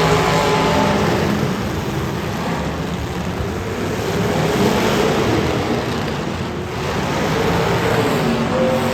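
Demolition derby cars' engines running and revving together in a loud, steady din.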